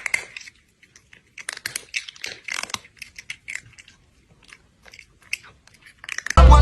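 Irregular, scattered crunching and clicking, unevenly spaced, with short gaps between; loud music comes in sharply near the end.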